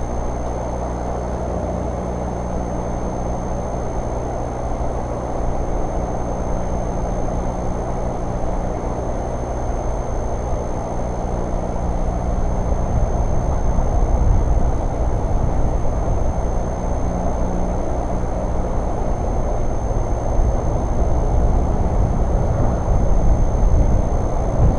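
A vehicle engine running with a steady low rumble, plus uneven low buffeting that grows stronger partway through.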